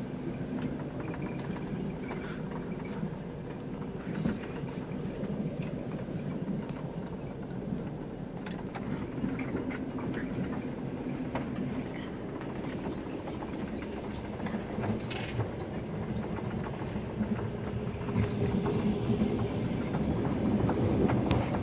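Passenger train carriage running along the track, heard from inside the open sleeper car: a steady low rumble with scattered clicks and knocks, growing louder a few seconds before the end.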